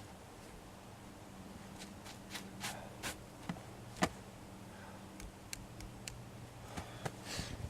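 Scattered crunches and knocks in packed snow while a snowmobile is being dug out, with one sharp knock about four seconds in.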